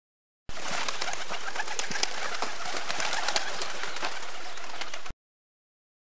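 Bird sound effect: a dense chatter of birds with many quick clicks throughout. It starts about half a second in and cuts off abruptly about a second before the end.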